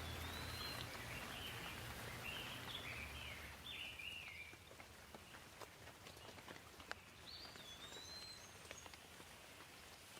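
Light rain hissing, with scattered single drips ticking. A bird sings short whistled phrases over the first few seconds and again about three-quarters of the way through.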